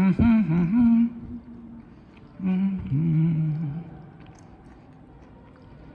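A man humming with his mouth closed, two wavering "mmm" hums each lasting about a second and a half, the second starting about two and a half seconds in.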